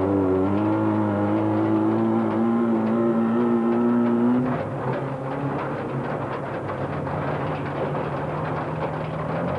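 Off-road race car engine running at high revs, its pitch slowly climbing, then dropping to a lower, rougher note about halfway through.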